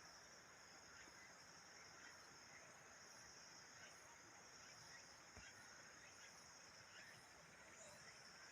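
Faint, steady high-pitched chorus of insects chirring.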